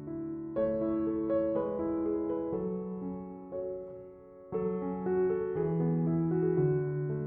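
Soft background piano music: slow chords struck and left to ring and fade, with a fresh chord about half a second in and another near the middle.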